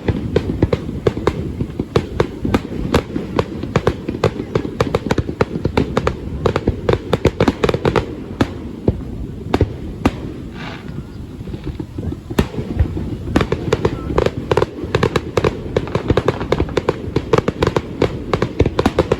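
Fireworks display: a rapid, unbroken stream of bangs and crackles over a dense low rumble.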